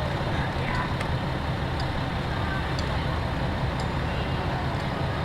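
Steady low mechanical rumble like a vehicle engine running, with faint voices of people around.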